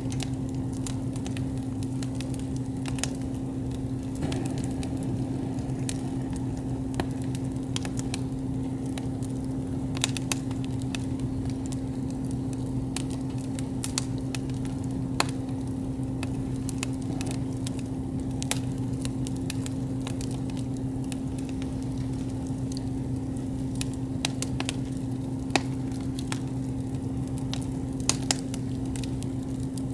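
Wood campfire crackling, with irregular sharp pops and snaps scattered through, over a steady low hum.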